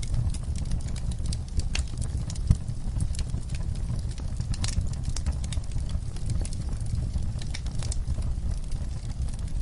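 Wood fire burning in a fireplace: a steady low rumble of flames with irregular sharp crackles and pops throughout, one louder pop about two and a half seconds in.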